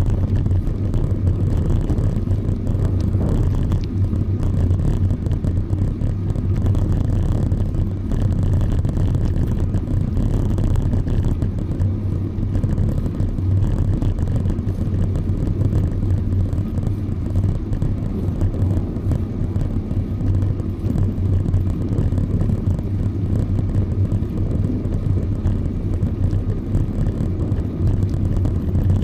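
Steady low rumble of riding noise picked up by a bicycle-mounted camera: wind on the microphone and tyres rolling on pavement.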